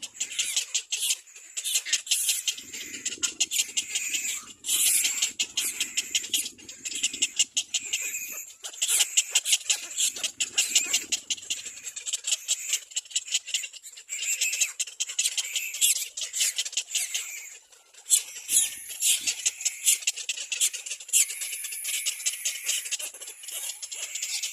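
Little black cormorant chicks calling: a rapid, continuous string of high-pitched squeaks, broken by a few brief pauses.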